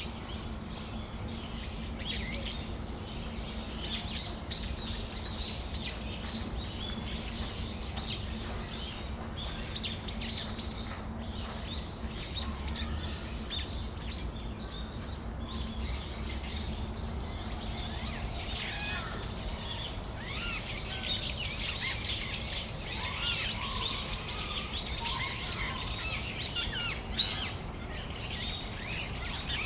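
Brown-eared bulbuls calling: many short, high chirps, busier in the second half, with one louder sharp call near the end, over a steady low hum.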